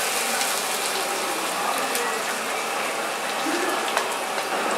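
Chopped onions frying in hot oil in a pan: a steady sizzle with scattered crackles.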